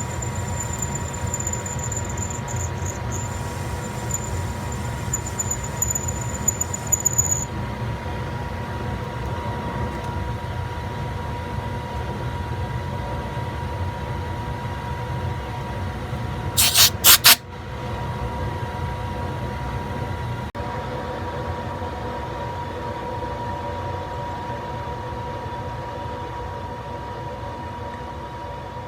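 Monarch 10EE lathe running steadily, with a constant hum and a steady mid-pitched tone. A thin high-pitched squeal over it stops suddenly about seven seconds in. About seventeen seconds in come three sharp metallic clanks in quick succession.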